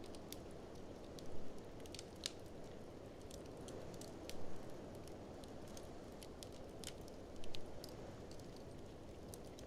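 Wood fire crackling in a fireplace, with scattered sharp pops, over a steady low rush of blizzard wind. A louder pulse comes about every three seconds.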